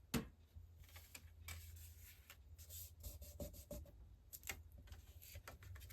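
Faint rubbing and rustling of paper and cardstock being handled, with scattered light taps and clicks; the sharpest tap comes just after the start.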